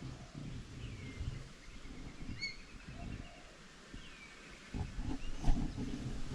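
Quiet woodland with a few short bird chirps over a low rumble. From about three-quarters of the way through come louder irregular knocks and rustling.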